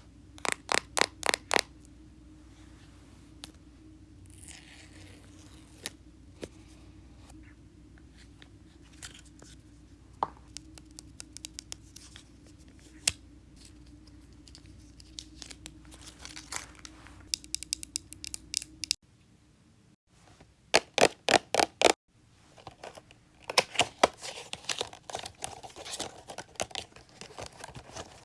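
AirPods box and its packaging being torn open and handled: quick runs of tearing and scraping strokes with scattered clicks and taps, densest near the end.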